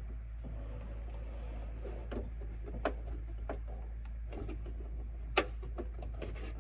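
Scattered light clicks and taps of hands and a tool working at a car emblem held on by plastic clips, the sharpest click about five seconds in, over a steady low rumble.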